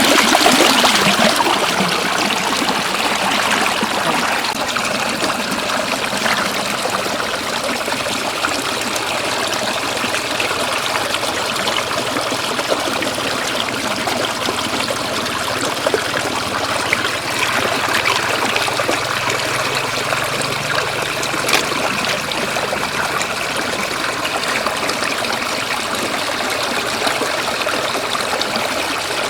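Shallow floodwater running steadily along a road, a continuous stream-like rush and trickle, with a few faint clicks scattered through it.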